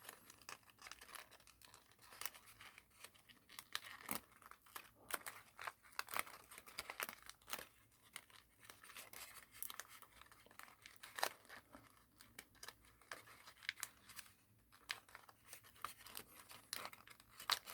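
Thin origami paper being folded and shaped by hand: faint, irregular crinkling and creasing.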